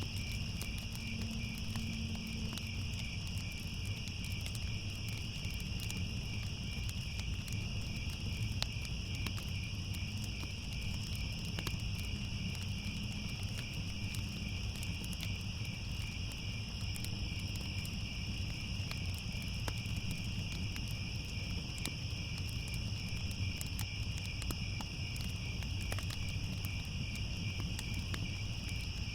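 Crickets chirping in a steady, continuous chorus, over a low rumble with scattered small crackles of a fire.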